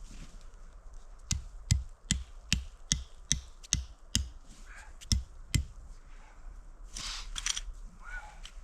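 A run of about ten sharp knocks, a little over two a second, each with a dull thud beneath it, with a short pause before the last two.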